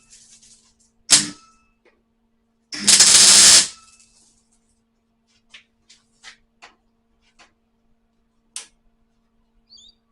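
Welder tack-welding a new sheet-steel patch panel: a short sharp burst about a second in, then a crackling tack of just under a second around three seconds in, followed by a few light clicks.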